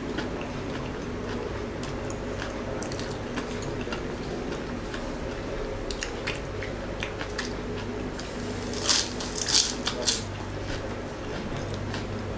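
A person chewing crispy fried lumpia shanghai (Filipino spring rolls) close to the microphone, with small wet clicks throughout and three loud crunches about nine to ten seconds in.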